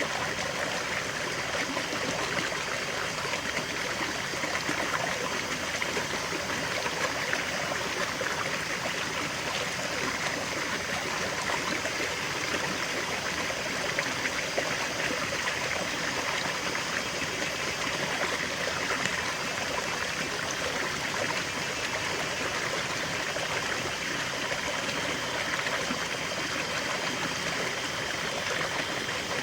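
River water flowing and babbling over stones: a steady rushing with fine splashing.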